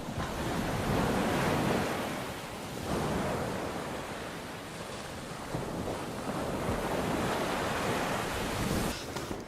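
Ocean surf: a rushing wash of breaking waves that swells and eases, cutting off near the end.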